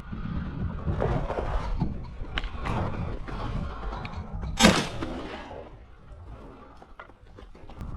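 A single shotgun shot about halfway through, sudden and loud with a short echoing tail, fired at a flushing rooster pheasant. Softer rustling noise of movement through the cover surrounds it.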